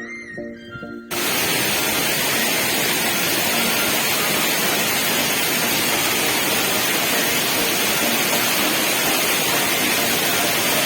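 Background music cuts off about a second in, giving way to the steady, loud rush of water from a large waterfall in monsoon flow.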